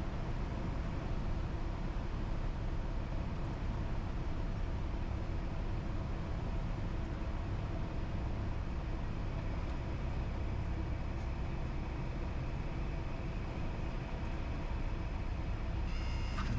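Cessna 172's piston engine and propeller droning steadily, heard inside the cabin, with a brief higher tone sounding near the end.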